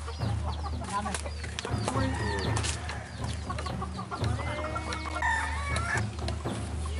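Birds calling, with many short rising and falling calls that come thickest about two seconds in and again from about four to six seconds, over a steady low hum.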